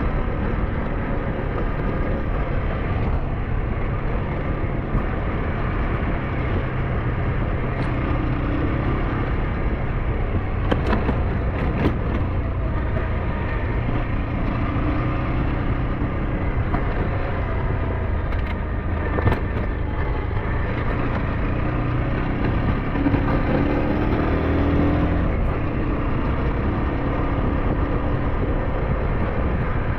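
SYM NHT 200 motorcycle engine running steadily under way, with a haze of road and wind noise. A few sharp knocks come near the middle, and the engine pitch rises a little about three-quarters of the way in.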